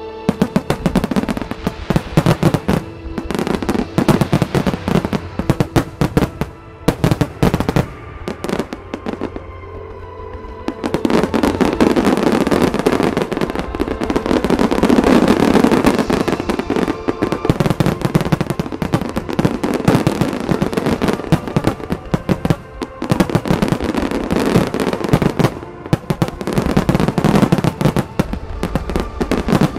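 Starmine fireworks barrage: rapid volleys of aerial shell bursts and bangs, thinning briefly about eight seconds in and then coming dense and continuous, with music from the loudspeakers underneath.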